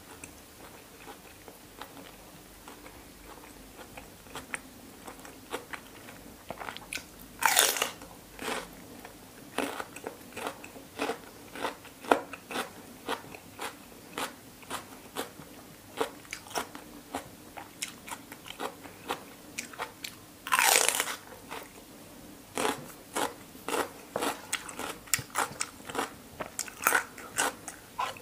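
Close-up crunching and chewing of crisp raw cucumber and bitter gourd. After a few quiet seconds, crisp chewing clicks come about every half second to a second. Two longer, louder crunching bites fall about a quarter of the way in and about three-quarters through.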